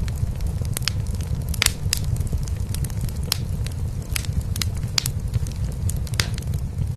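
Wood fire in a fireplace crackling, with irregular sharp pops several times a second, over a steady low, fluttering purr from a cat.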